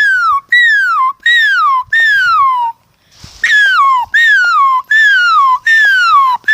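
A person's voice imitating a squirrel's call. It is a string of high, squeaky calls, each sliding down in pitch over about half a second, repeated about eight times with a short break about three seconds in.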